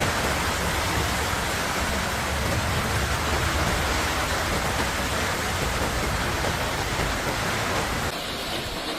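Heavy rain falling, a steady dense hiss with no breaks; the sound changes abruptly about eight seconds in, the hiss becoming duller.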